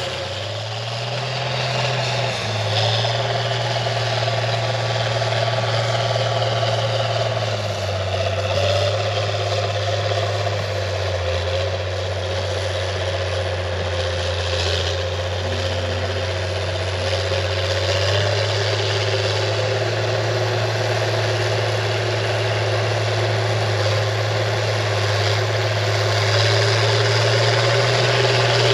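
International TD15C crawler dozer's DT466 six-cylinder diesel engine running steadily. Its note steps down about eight seconds in and comes back up around eighteen seconds in, rising a little more near the end.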